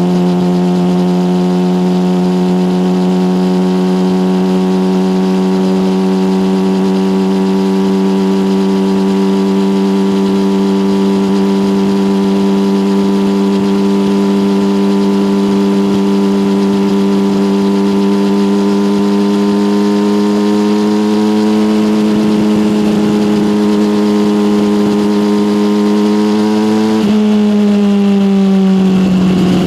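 Yamaha motorcycle engine through an SC-Project aftermarket exhaust, running at a steady cruise with its note creeping slowly higher. Near the end the note drops abruptly, twice, then settles again.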